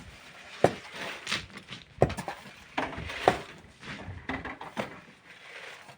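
Hand tools striking and scraping stone and gravel: a few sharp, irregular clinking knocks, the loudest four in the first half, with lighter knocks and scraping in between.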